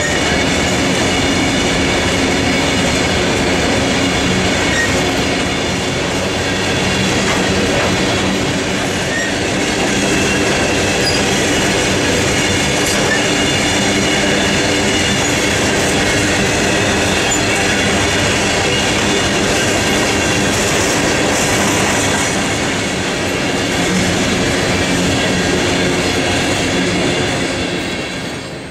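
CSX freight train of hopper cars rolling past, steel wheels clacking over the rail joints with a steady high-pitched wheel squeal; the sound fades near the end.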